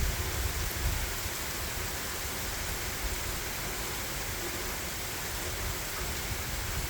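Heavy rain falling steadily, a dense, even hiss, with runoff water running over the yard. A low, fluctuating rumble sits underneath throughout.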